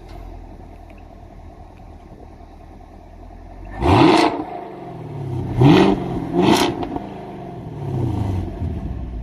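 Chevrolet Camaro SS 6.2-litre LT1 V8 with its active exhaust valves open in track mode, idling, then revved: three sharp blips a couple of seconds apart and a softer, longer rev near the end, each falling back to idle. Definitely a lot louder than with the valves closed.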